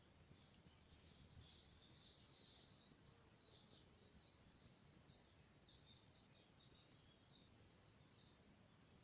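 A songbird singing one long, faint song of quick, varied high notes, with a few faint clicks of a campfire crackling.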